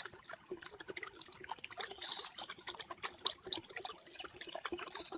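Storm runoff trickling and flowing across a flooded driveway, with many small irregular splashes and drips.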